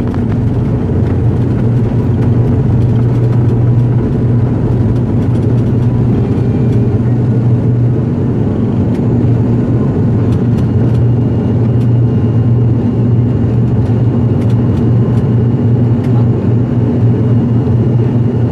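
ATR 72-500 turboprop's engines and propellers running with a steady low drone, with a few faint ticks over it.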